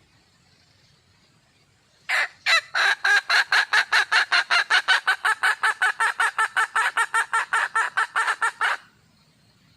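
Wild junglefowl hen calling for a male: two drawn-out notes, then a fast, even run of short clucks, about five a second, for some six seconds, stopping abruptly.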